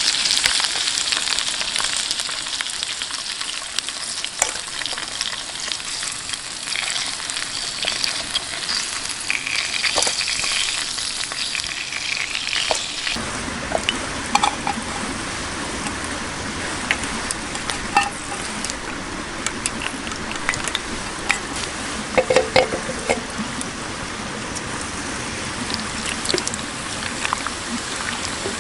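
Food sizzling in a hot pan, a bright steady hiss with scattered pops. About halfway through the high hiss drops away, leaving a lower crackle with occasional sharp pops and ticks.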